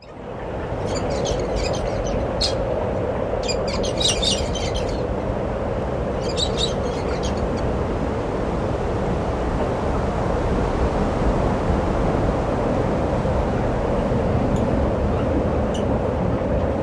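Small birds chirping in a few short rapid bursts, mostly in the first half, over a steady low rumbling background noise.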